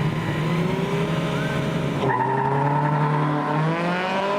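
Truck engine running under throttle, its pitch climbing steadily as it accelerates, with an abrupt change about two seconds in.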